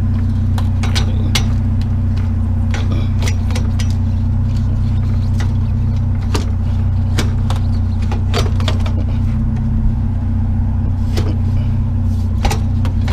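A vehicle engine idling steadily, with scattered sharp knocks and clatter of things being moved about as a chair is shifted around the load.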